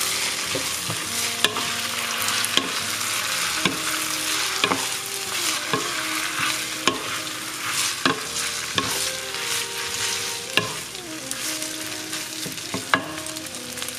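Rice noodles sizzling in hot oil in a pan as a wooden spoon stirs and tosses them, with a sharp knock of the spoon against the pan about once a second.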